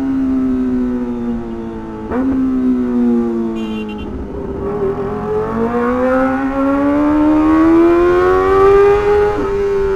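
Kawasaki Ninja ZX-25R's 250 cc inline-four engine heard from the rider's seat. Its high note falls as the bike slows and jumps up sharply about two seconds in with a blipped downshift. It then climbs steadily under acceleration for several seconds and dips sharply at a gear change near the end.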